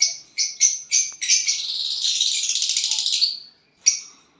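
Pet bird calling: a run of short, sharp chirps about four a second, then a buzzy rattling chatter lasting about two seconds, and one more chirp near the end.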